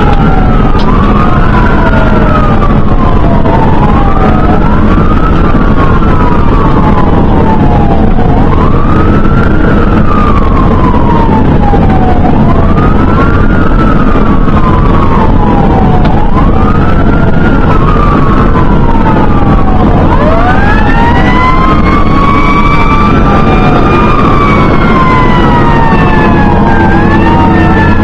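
Fire engine siren wailing, each sweep rising and then falling about every three to four seconds, over the steady drone of the truck's engine. About twenty seconds in, a second siren with higher, longer sweeps joins and overlaps the first.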